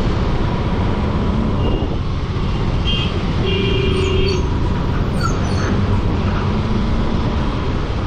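Motorcycle riding at highway speed: steady engine, tyre and wind noise with passing traffic. Two short horn beeps sound about three seconds in and again just after.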